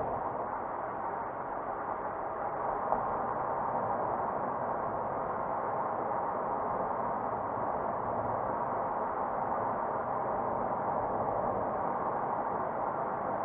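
Steady engine and road noise of a car driving, with one brief tick about three seconds in.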